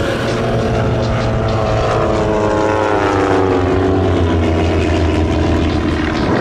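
Two Van's RV-8 propeller aerobatic planes making a formation pass. Their engine buzz drops in pitch as they go by, from about two seconds in to about five.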